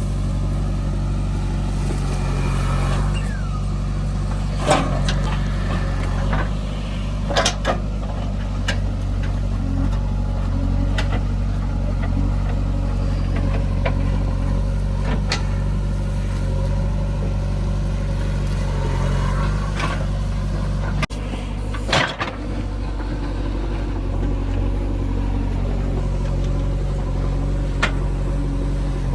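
Heavy diesel engine running steadily at an even pitch, with several short, sharp knocks scattered through.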